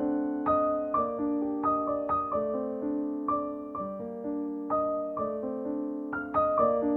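Gentle piano background music, single notes played at about two a second over sustained lower notes.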